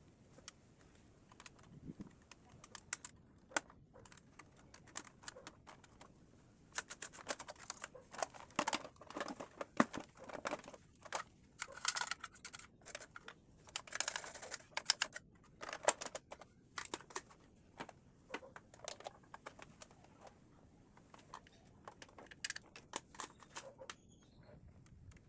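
Irregular sharp clicks and rattles of small hard plastic parts being handled. They come sparsely at first, crowd together through the middle with a brief scraping rush, then thin out again near the end.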